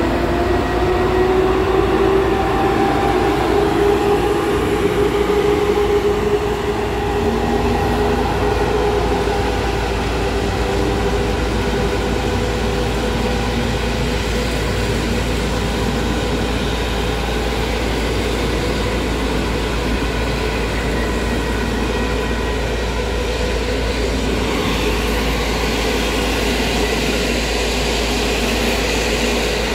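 PKP EP07 electric locomotive hauling an InterCity passenger train, with the steady rumble of the train on the track. A whine in it rises slightly over the first few seconds and then holds steady.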